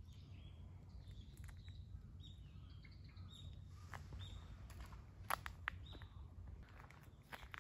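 Small birds chirping in short, high, repeated calls that mostly drop in pitch, over a faint low rumble. Two sharp clicks about a third of a second apart a little past halfway are the loudest sounds.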